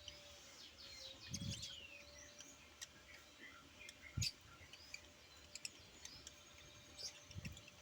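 Pet bird giving faint, scattered chirps, with sharp clicks and three low thumps about one and a half, four and seven and a half seconds in, over a faint steady hum.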